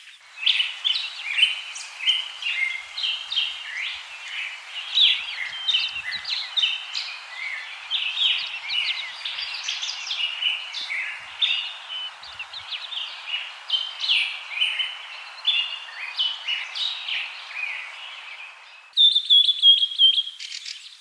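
Many small birds chirping and twittering busily over a steady hiss. About two seconds before the end it cuts abruptly to a different bird call: a held high note, then a rapid trill.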